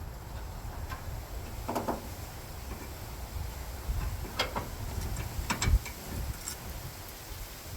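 Hand tools on metal fittings giving a few scattered metallic clicks and ticks as screws are worked by hand, with a small run of quick clicks about two seconds in, over a steady low rumble.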